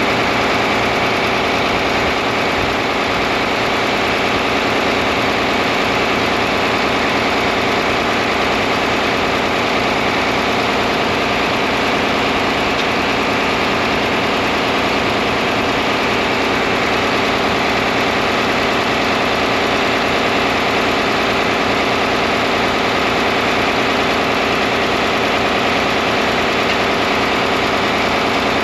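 John Deere 4010 tractor engine idling steadily, with no change in speed.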